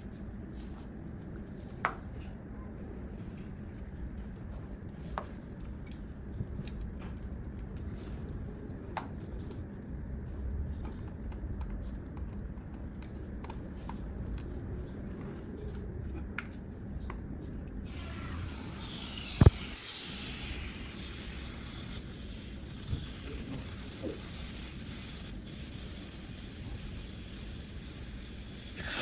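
Scattered small clicks and handling knocks, then a steady high hiss of air starts about two-thirds of the way through and keeps going, with one sharp knock shortly after it begins.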